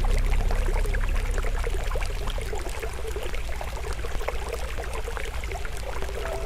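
Campfire crackling with many small pops over the steady rush of a flowing stream. Soft held music tones fade out in the first couple of seconds.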